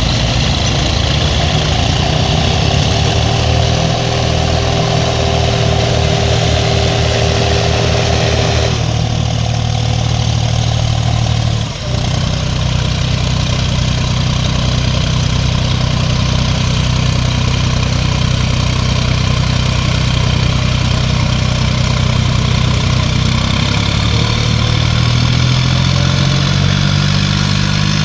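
Farm tractor diesel engines running hard under heavy pulling load, steady and loud. The sound changes abruptly twice in the first half, and in the last few seconds the engine pitch climbs as it revs up.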